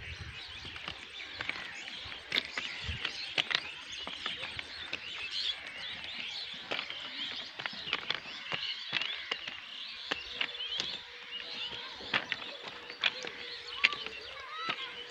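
Many small birds chirping and twittering in open countryside, with scattered sharp clicks.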